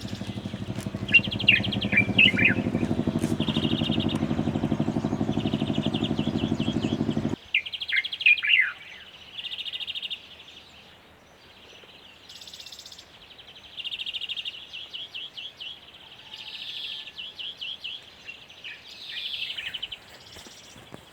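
Small birds chirping and trilling in short repeated bursts, with a few quick sliding chirps. For the first several seconds a steady low motor-like hum runs under them, then cuts off abruptly.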